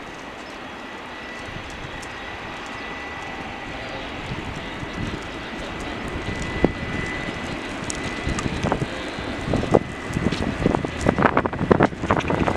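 Jet airliner engine noise, a steady rushing sound with a thin high whine, slowly growing louder. Wind buffets the microphone with irregular thumps over the last few seconds.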